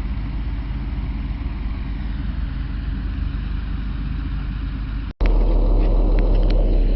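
Tow truck's engine running steadily while it winches a crashed truck backwards. There is a brief break just after five seconds in, after which the low rumble comes back louder.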